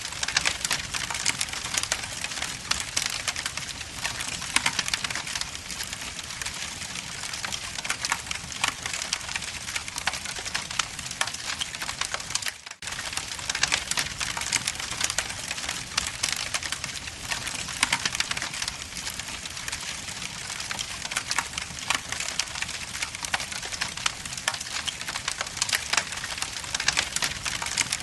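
Wood logs burning in a fireplace, crackling and popping in a dense, steady stream of small sharp snaps. The sound drops out for a moment about halfway through.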